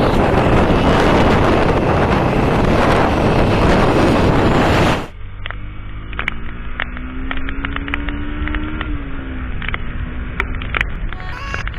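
Strong wind noise buffeting the microphone on a moving motorcycle for about five seconds, then a sudden cut to a duller recording of the engine, whose note climbs slowly and then drops back a little after eight seconds in, with scattered sharp ticks.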